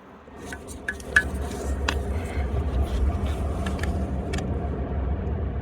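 John Deere tractor engine running at a steady idle, heard close up. Its low rumble swells over the first two seconds. A few sharp clicks come in the first couple of seconds.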